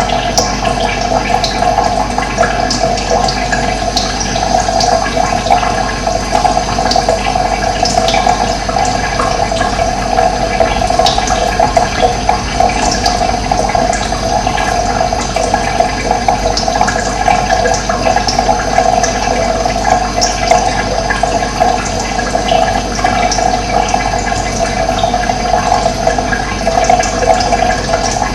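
Steady rushing of running water, with short bird chirps scattered over it.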